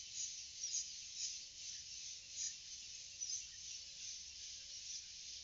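Forest insect chorus, a dense high chirping and buzzing that swells in pulses, with a faint low short call repeating about every two-thirds of a second.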